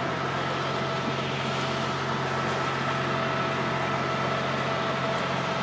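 Steady engine or machine running at a constant pitch, a hum of several steady tones over a noisy rush, with no change in speed.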